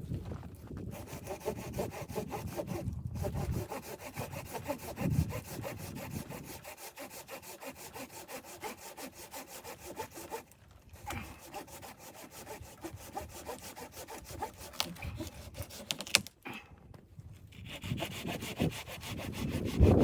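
A saw cutting through wood in a steady run of strokes, stopping briefly a few times.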